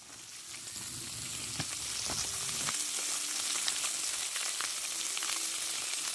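Pike fillets frying in a pan: a steady sizzle with small crackles that builds up over the first second or so and then holds.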